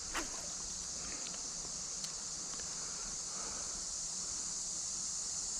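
Steady, high-pitched chorus of insects such as crickets droning without a break in the woods, with a brief falling sound just after the start and a faint tick about two seconds in.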